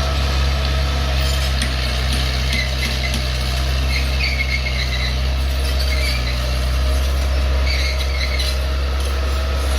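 Bulldozer's diesel engine running steadily under load, with short high squeaks coming and going.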